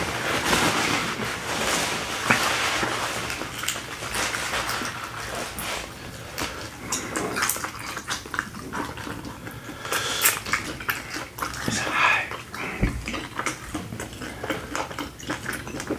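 Close-miked eating sounds: wet chewing, lip smacking and slurping of saucy seafood, made of many quick mouth clicks and squelches.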